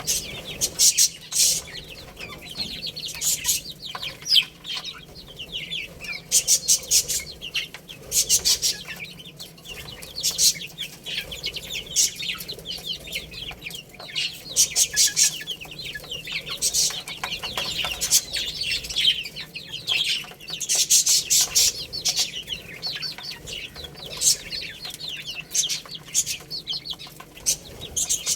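A group of baby chicks peeping: a near-continuous chorus of short, high-pitched chirps coming in quick clusters.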